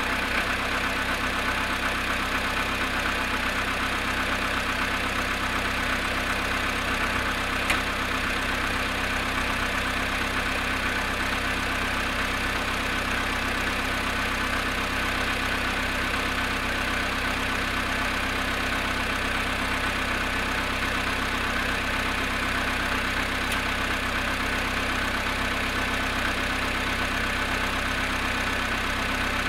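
Volkswagen Polo Sedan engine idling steadily while still cold after a night's standing at −1 °C, with the knock the owner records it for. One small click about eight seconds in.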